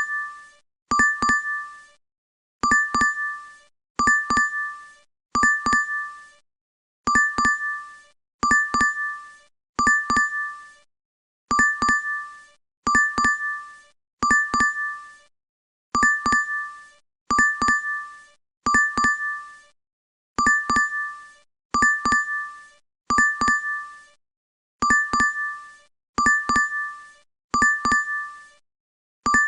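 DoorDash app notification chime: a short two-note digital ding, each one struck twice in quick succession, repeating over and over about once a second with brief gaps between groups.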